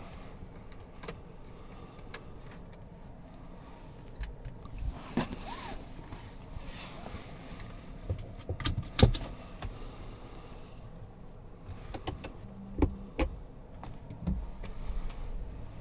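Scattered clicks and knocks from the car's interior controls, with a short electric motor hum lasting under a second about two-thirds of the way through.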